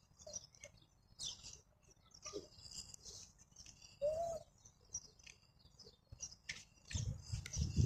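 Small birds chirping in the background, many short high calls scattered throughout. A brief rising-and-falling tone sounds about four seconds in, and a low rumble, the loudest thing here, comes near the end.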